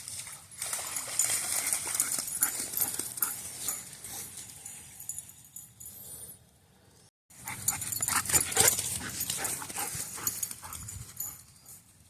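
Dogs playing in shallow floodwater, their paws splashing irregularly through the water, with a brief break just past the middle.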